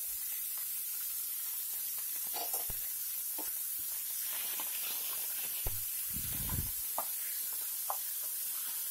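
Chicken pieces frying in onion paste in a nonstick pan: a steady sizzling hiss, with a spatula clicking and scraping against the pan now and then as it is stirred, and a dull bump about two thirds of the way in.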